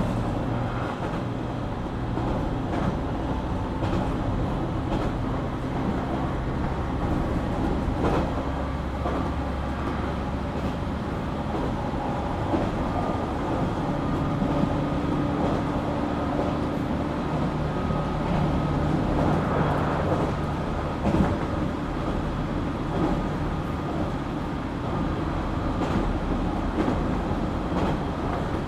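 JR Kyushu 817 series electric train running, heard from inside the car: a steady rumble of wheels on rail under several motor hum tones that step in pitch over the stretch, with faint clicks now and then. This unit has an unusual running noise that the uploader likens to a Keio 7000 series.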